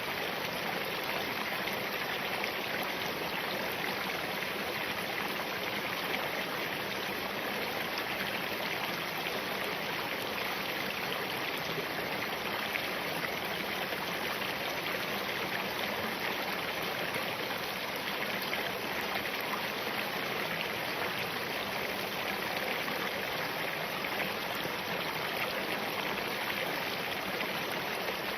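Small mountain stream of spring water running steadily over rocks, an even rushing babble with no breaks.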